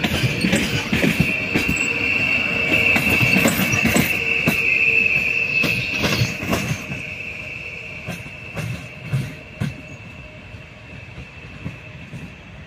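Train rolling along the rails, its wheels squealing in one steady high tone while the wheels click over rail joints; the squeal and clatter die away over the second half.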